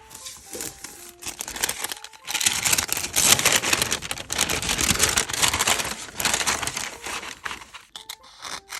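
Crinkly wrapping being handled and rustled. A few light crinkles come first, then loud, dense crinkling from about two seconds in that eases off near the end.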